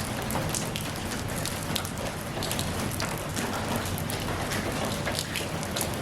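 Steady rain falling, with many individual drops pattering and splashing on a surface.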